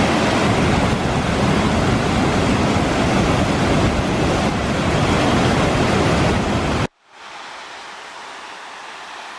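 Kivach waterfall on the Suna river rushing steadily. The roar cuts off abruptly about seven seconds in and gives way to a fainter rushing of water.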